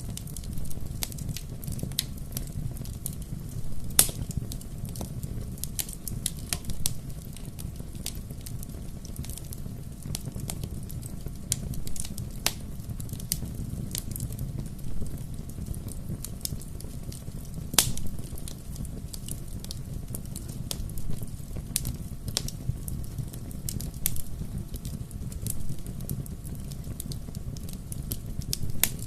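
Wood fire crackling: a steady low rumble of burning with frequent sharp pops and snaps at irregular moments, a few louder pops standing out, the loudest about four seconds in and again just before halfway.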